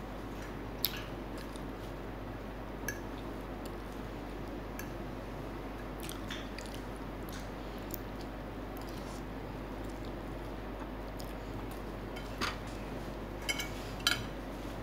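Close-up mouth sounds of eating Samyang instant noodles and fried chicken: chewing and slurping, with scattered short clicks and smacks over a steady low hum.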